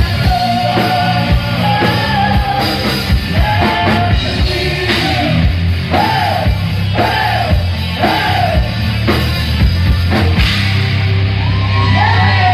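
Live heavy rock band playing loudly, with drum strikes over a heavy bass line and a yelled, sung lead vocal. About halfway through, the voice sings four short arching phrases in a row.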